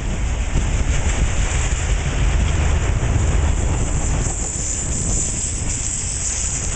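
Enclosed autorack freight cars rolling steadily past at close range: a continuous low rumble of steel wheels on rail. Wind buffets the microphone.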